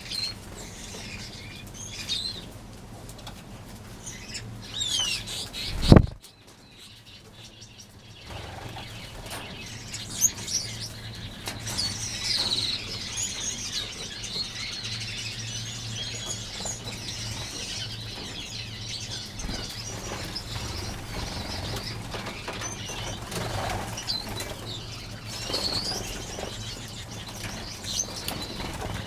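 Many small finches in an aviary, chirping and fluttering their wings. A single loud knock comes about six seconds in, over a steady low hum.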